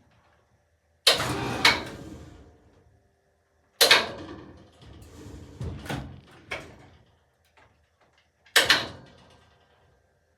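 Three loud, sudden clunks, each ringing out over about a second, with a few smaller knocks between them, from the hoisted MDF slab and its rigging being handled.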